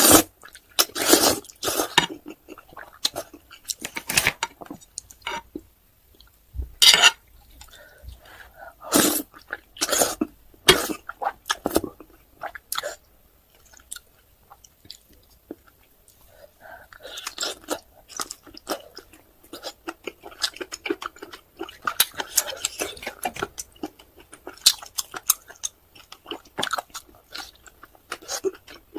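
Close-miked chewing of octopus and spicy buldak noodles: irregular, sharp mouth sounds with short pauses between bites.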